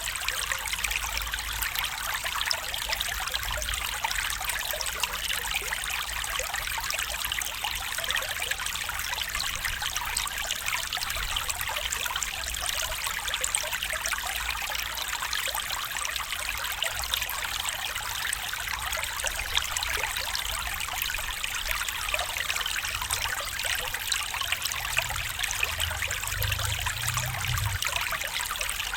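A small stream running and trickling steadily, a dense bubbling patter of water.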